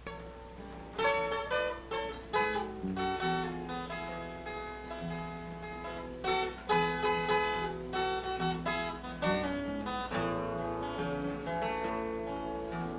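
Acoustic guitar played alone as an instrumental lead-in to a country song, a run of picked melody notes over bass notes, each ringing after it is plucked.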